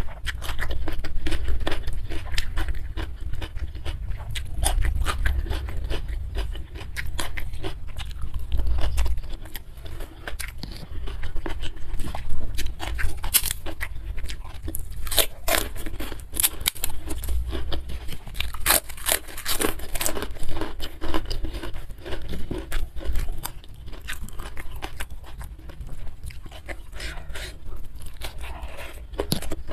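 Close-miked chewing of a meal eaten by hand, with dense small mouth clicks throughout and a few louder crunchy bites around the middle.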